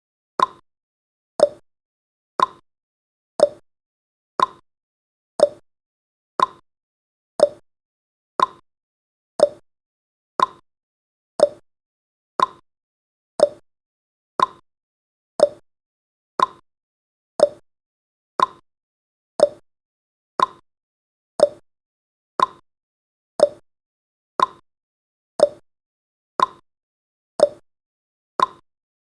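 Countdown timer's ticking sound effect: short ticks once a second, alternating between a higher and a lower pitch like a tick-tock.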